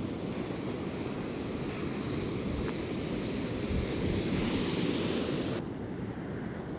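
Ocean surf washing on the beach, with wind blowing across the microphone. The surf swells about four seconds in, then the hiss drops off suddenly about a second before the end.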